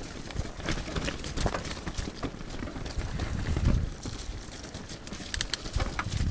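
Mountain bike riding down a wet, muddy trail: the bike rattles over the ground with many irregular clicks and knocks, and there is a louder low rumble about three and a half seconds in.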